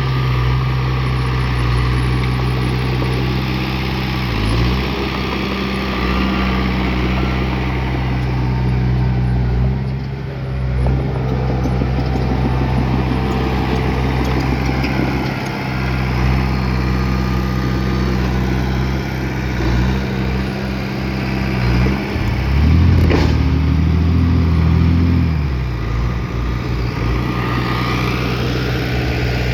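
Bulldozer's diesel engine running steadily and loud, its note dropping lower and stronger for a few seconds about three-quarters of the way through, with one sharp knock at that change.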